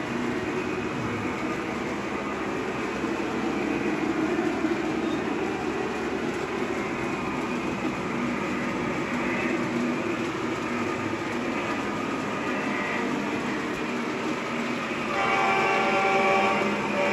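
Lionel Legacy ES44AC model locomotive's onboard sound system playing a diesel engine running steadily as the train rolls. The horn sounds about fifteen seconds in, louder than the engine.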